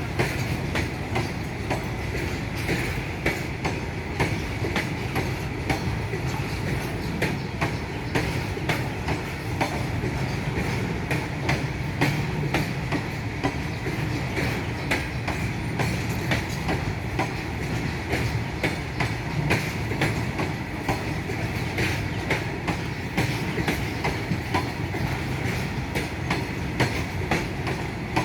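Long freight train of bogie open wagons rolling steadily past, a continuous rumble with the wheels clicking over rail joints many times a second, and a faint higher ring from the wheels on the rails.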